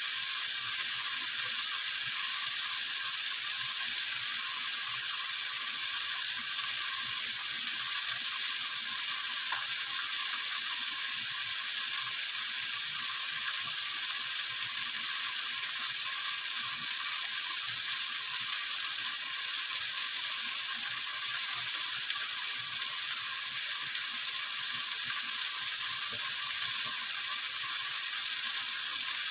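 Chicken pieces sizzling steadily in hot oil in a cooking pot as they sear, a continuous crackling hiss that holds at one level throughout.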